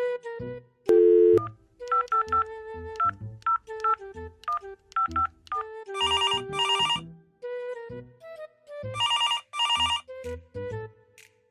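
Telephone ringing in a double-ring pattern, twice about three seconds apart, over light background music of short plucked notes.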